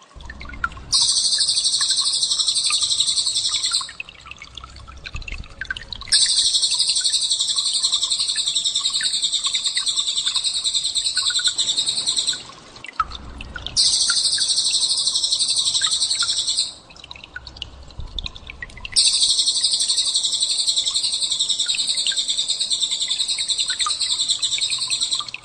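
Small songbird's rapid-fire 'tembakan' song: very high, dense trilling delivered in four long bursts of about three to six seconds each, with short pauses between them.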